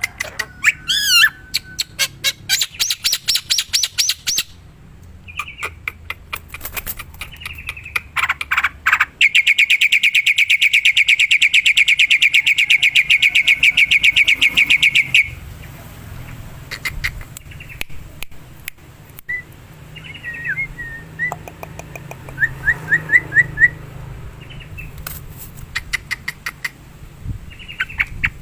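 Black-winged starling (jalak putih) calling: bursts of harsh rapid chattering notes, then a long fast rattling trill lasting about six seconds in the middle, followed by scattered short whistles and chatters.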